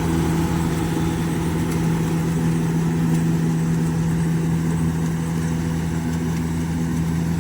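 Engine of a Kubota DC70G Plus combine harvester running at a steady, even speed, a constant hum with no change in pitch.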